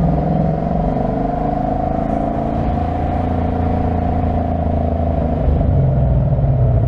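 2025 Ford Mustang GT's 5.0-litre V8 running on the move, a steady engine note with deep rumble whose pitch rises slightly and then eases back down.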